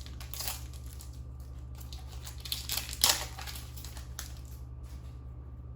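Trading cards being handled, with short rustles and crinkles, the loudest a little past halfway, over a steady low hum.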